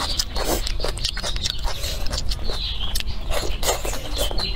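Close-miked chewing of a mouthful of tofu, greens and rice: wet smacking and many small mouth clicks.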